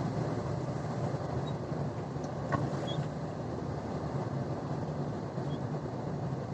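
Steady engine and road noise inside a truck's cab while driving, with one faint click about two and a half seconds in.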